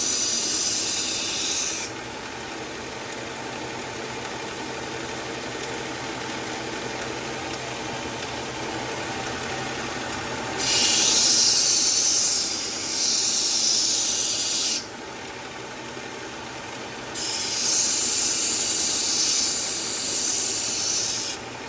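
Powered belt sharpener running with a steady motor hum while a dull utility knife's edge is drawn across the abrasive belt in three passes, each a grinding hiss: at the start, about halfway through and near the end. The repeated passes are grinding in a new, steeper 17-degree edge until a burr forms.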